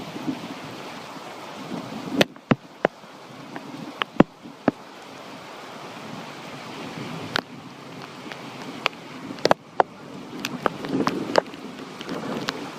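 Summer storm: steady rain and gusting wind, swelling near the end, with a dozen or so scattered sharp taps or knocks at irregular intervals.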